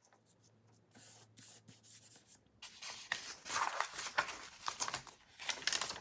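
Sheets of paper rustling and sliding as they are handled and sorted. The rustling starts faint about a second in and becomes denser and busier from about halfway.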